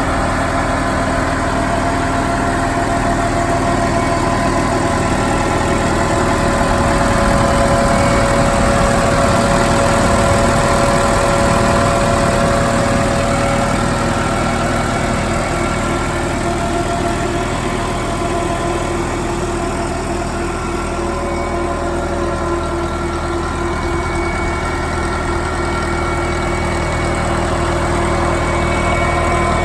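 Massey Ferguson 165 tractor engine running steadily at idle, a little louder for a few seconds about a quarter of the way in.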